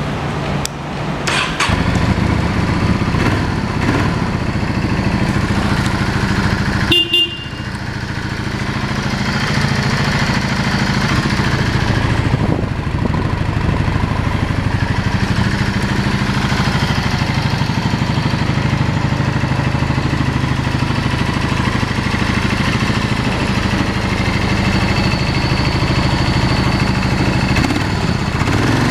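2008 Yamaha XV650 V-Star V-twin engine catching about a second and a half in and then idling steadily, with a brief sharp dip in its running about seven seconds in before it picks back up. The engine sounds good apart from a carburettor that the tester calls a little sticky.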